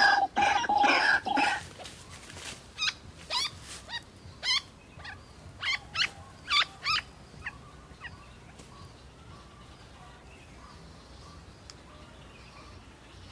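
White-breasted waterhen calling: loud harsh calls at the start, then a series of short sharp notes that come further apart and die away about eight seconds in.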